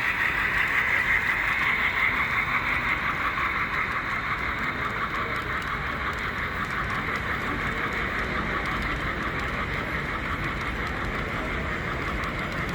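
Model train running on a layout's track, a steady rolling whir.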